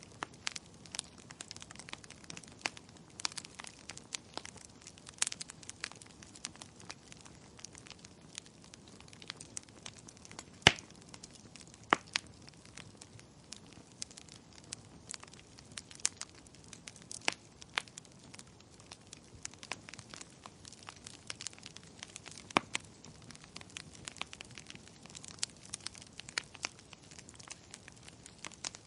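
Wood fire crackling in a fireplace: a steady scatter of small snaps and pops over a soft hiss, with a louder sharp pop about ten seconds in.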